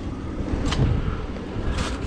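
Vehicle running along a road, heard as a steady low rumble, with two brief clicks or rattles, one near the start and one near the end.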